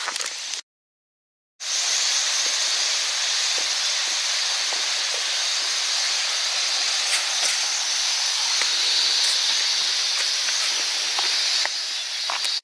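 Steady high-pitched insect chorus, a continuous shrill hiss, cut off for about a second near the start.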